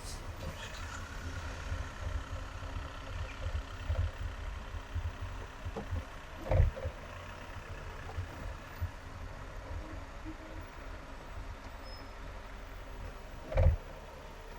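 Car driving on a highway: a steady low rumble of road and engine noise, with two dull thumps, one near the middle and one near the end.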